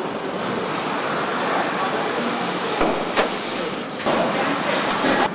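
Truck assembly-line factory noise: a steady din with a few sharp knocks, the loudest just after three seconds in, and voices in the background.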